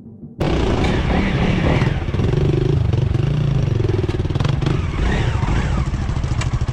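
Motorcycle engine running while riding, cutting in abruptly about half a second in and running steadily with a rapid, even pulse.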